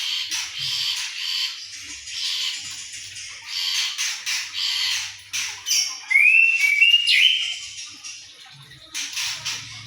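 Anis thrush singing: a run of short, harsh, squawky chattering notes, then about six seconds in a few loud clear whistled notes that slide in pitch, the loudest part. After a brief pause the harsh chatter starts again near the end.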